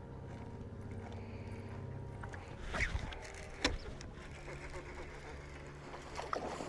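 Electric trolling motor on a bass boat humming steadily. Two sharp clicks or knocks come about three and four seconds in.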